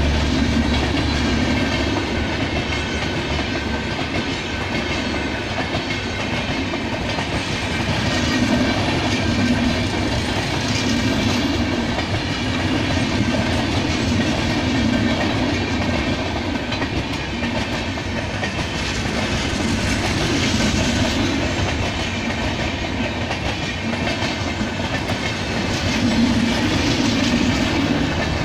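Indian Railways LHB passenger coaches rolling past at speed: a steady rumble of steel wheels on rail with a clickety-clack rhythm, swelling every couple of seconds as each set of bogies goes by.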